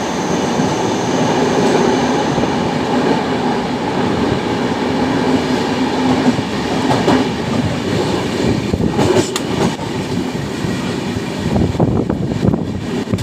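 Passenger train running on the rails, a steady loud rumble with a faint whine early on and sharp wheel clacks over rail joints growing more frequent near the end.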